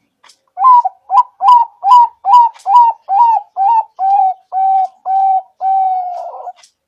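Zebra dove (perkutut) singing: a run of about a dozen cooing notes, the first ones short with an upturned hook, the later ones longer and flatter, ending in one long drawn-out note.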